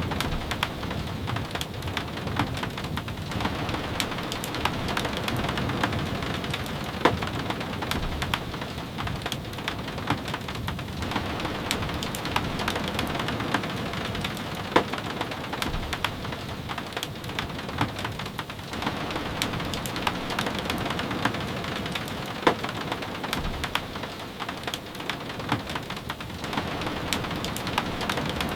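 Steady rain falling, with many scattered sharp ticks and taps of drops throughout.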